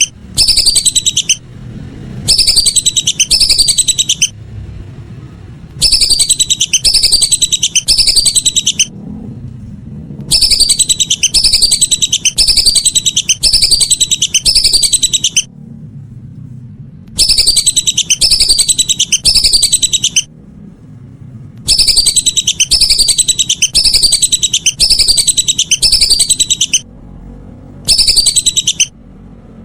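Lesser whistling duck (belibis) calls: loud runs of high, falling whistles, about two to three a second, coming in bursts of a few seconds with short pauses between, as in a bird-call recording played to lure the ducks.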